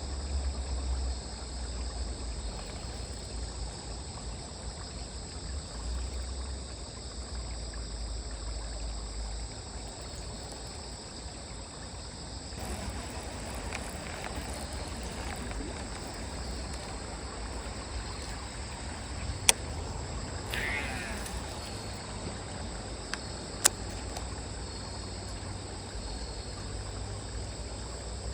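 A steady high-pitched chorus of insects trilling over a low rumble. Through the middle there is a stretch of soft rustling or water noise, and two sharp clicks ring out a few seconds apart.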